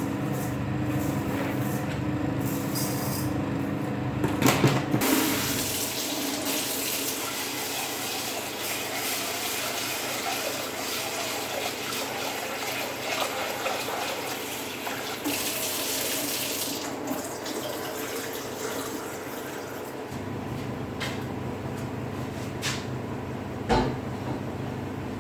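A steady machine hum, then water running from a tap into a sink for about fifteen seconds, followed by a few clicks and a knock near the end.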